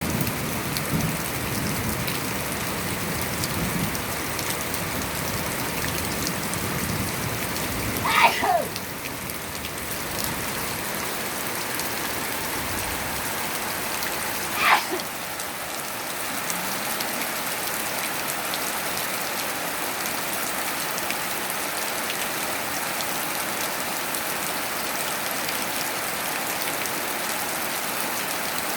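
Steady rain falling on surfaces. Two short, falling, whistle-like calls stand out above it, about eight and fifteen seconds in.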